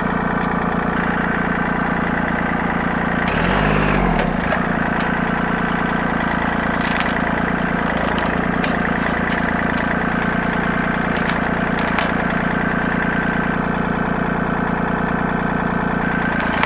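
Compact tractor engine running steadily under load while the tractor pushes against a dead tree. The engine note bends briefly about four seconds in, and a few sharp clicks come later.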